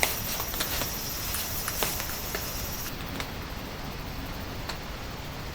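Steady light rain with scattered sharp drips tapping, with insects chirping high and steady until about three seconds in, when the chirping stops.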